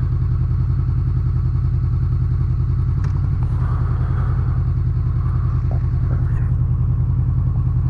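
Honda VFR800's V4 engine running steadily at low revs, an even pulsing beat that holds the same pitch throughout.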